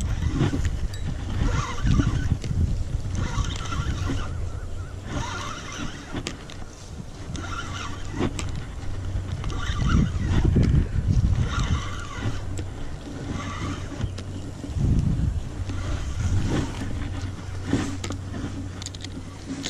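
Spinning reel being cranked in spells as an angler reels in a hooked snakehead, over low rumbling wind and handling noise on the microphone.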